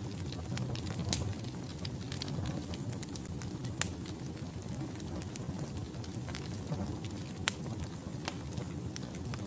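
Wood logs burning in a fireplace: a steady low rumble of flame with scattered crackles and sharp pops. The loudest pops come about a second in, near four seconds and at about seven and a half seconds.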